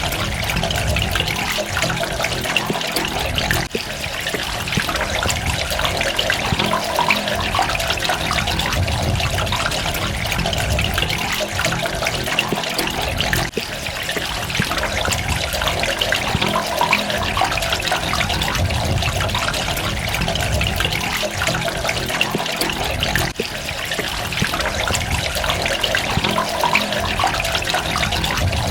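Running water splashing and trickling steadily, with a brief dip in level about every ten seconds.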